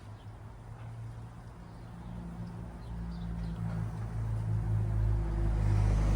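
A car approaching on the road, its engine and tyre noise growing steadily louder.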